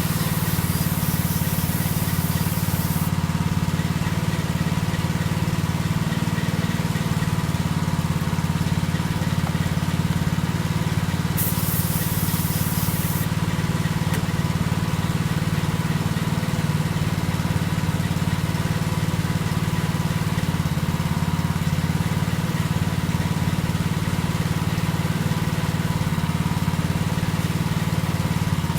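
Two hisses of spray paint being sprayed, one of about three seconds at the start and one of about two seconds around eleven seconds in. A loud, steady, low motor drone runs under them.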